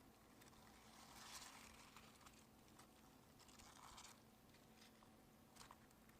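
Near silence: faint room tone with a low hum, soft rustling twice and a few light clicks.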